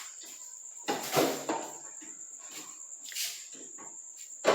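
A steady, high-pitched insect trill, like a cricket, runs on throughout. Over it come a few knocks and clatters, the loudest about a second in and another sharp one at the very end.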